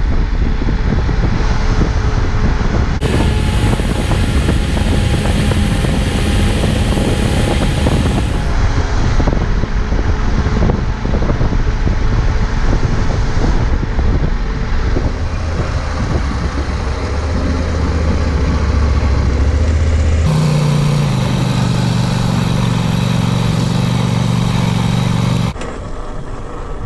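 Motorcycle engine running under way, with road and wind noise; the engine note and noise change abruptly a few times.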